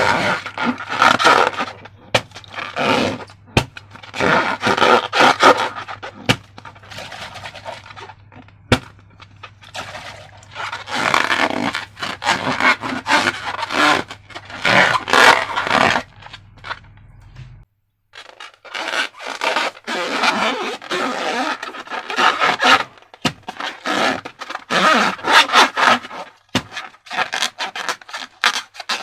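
Slime and transparent balloons being handled by hand: irregular bursts of wet rubbing and scraping, with a few sharp clicks. A low background hum stops about two thirds of the way through.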